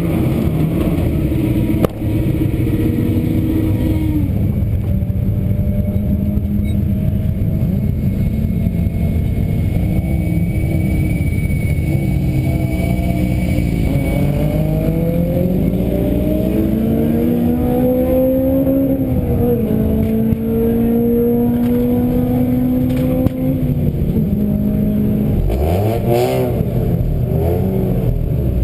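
Car engine running under changing revs, its pitch rising and falling repeatedly over a constant low road and wind noise.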